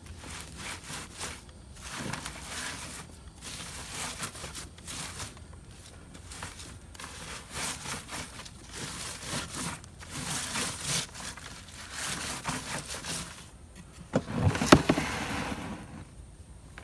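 Ditch soil being rubbed and pushed across a hand sifting screen: repeated short scraping and rustling strokes as dirt falls through the mesh, with a louder knock about two seconds before the end.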